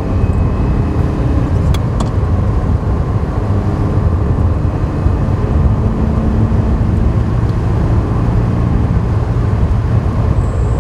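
Ferrari 328 GTS's 3.2-litre V8 running steadily under way, heard from the open targa-top cabin with wind and road noise mixed in. Two sharp clicks about two seconds in, and a thin high tone comes in near the end.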